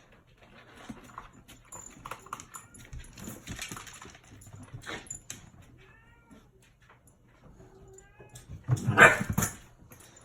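A dog making small whining sounds amid light scuffling, with a louder burst of sound about nine seconds in.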